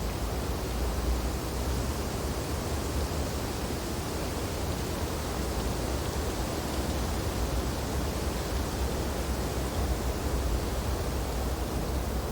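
Steady wind blowing through snowy tree branches, a constant, even rushing noise with no gusts or breaks standing out.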